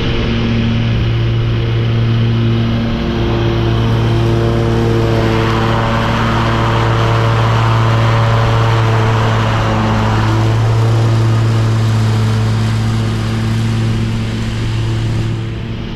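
Skag V-Ride 2 stand-on mower running steadily at working speed with its deck mulching leaves. A rushing noise swells about five seconds in and eases off by about ten seconds.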